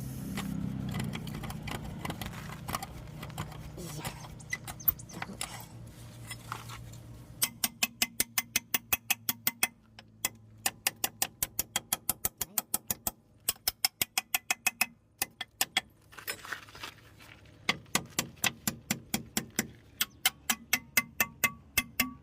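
Rapid, regular metallic clicking, about five clicks a second, in runs of a few seconds with short pauses, starting about a third of the way in; before that, a low hum with a few scattered knocks.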